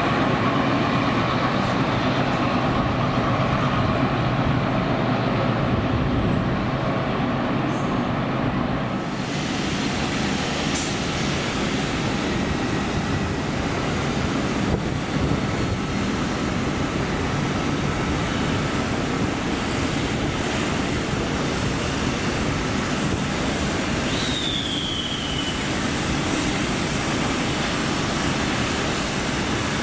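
Train running with a steady rumble and rail noise, growing hissier about nine seconds in, with a brief high squeal falling in pitch near the end.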